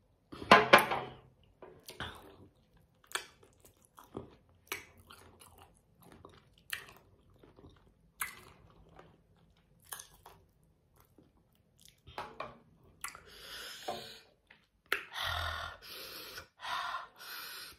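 Close-miked chewing and biting of spicy chicken feet: wet mouth sounds and crunches, about one a second, growing denser and longer near the end. The loudest sound is a sudden one about half a second in.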